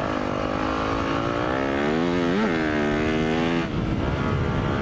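Four-stroke single-cylinder dirt bike engine running under throttle through sand, with a quick rev up and back down about two and a half seconds in. The throttle is rolled off near the end, and the steady engine note breaks into a rougher putter.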